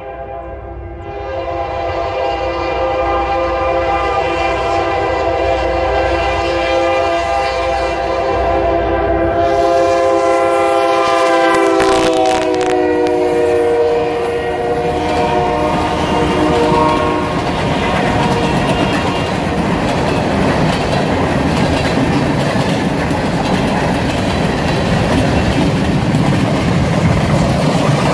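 Diesel locomotive's multi-note air horn blowing a long, loud chord as the train approaches; it drops in pitch as the locomotive passes about 12 seconds in. The horn then gives way to the rumble and clickety-clack of the train's cars rolling by.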